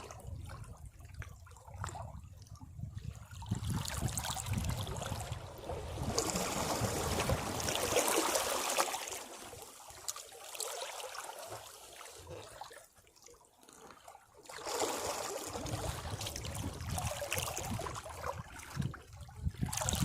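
Sea waves washing over rocks: a wave swells and hisses strongest about a third of the way in, drains away to a lull, and the next wave builds again in the last quarter.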